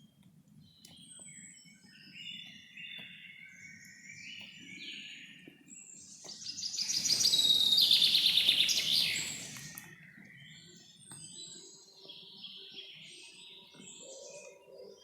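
Several wild birds singing and calling over a faint low rumble. About seven seconds in, one loud, rapid trilled song over a rush of noise swells and fades over about three seconds.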